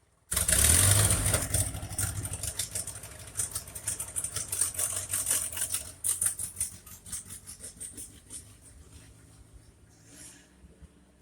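1958 Ford 851 tractor engine bursting into life, running with a fast uneven firing beat, then gradually weakening and fading out over the last few seconds.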